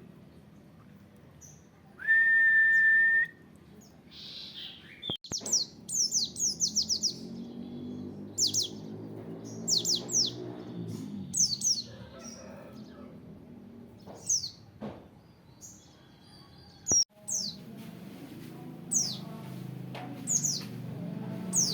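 White-eye (pleci) singing: quick runs of high, sharply falling chirps, repeated throughout. About two seconds in, a loud, steady whistle-like tone lasts about a second.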